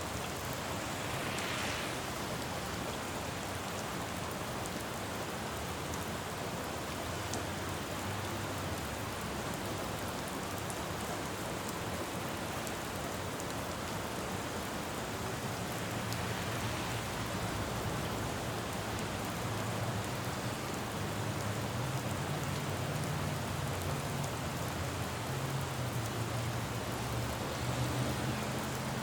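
Steady rain falling on a city street, with traffic on the wet road. About a second in, a brief swell of tyre hiss; from about halfway, a low engine rumble builds and holds.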